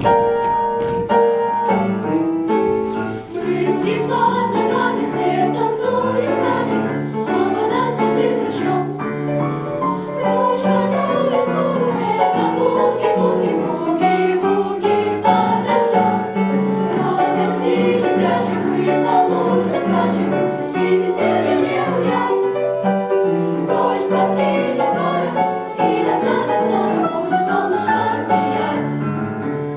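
Vocal ensemble singing a boogie-woogie song in chorus, with piano accompaniment.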